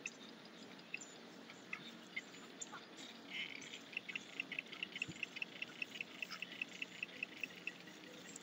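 A bird chirping: a few scattered high chirps, then about three seconds in a fast, even run of short chirps, about six a second, lasting some four seconds.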